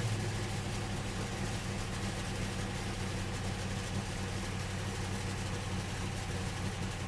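Car engine idling steadily after a rev has died down.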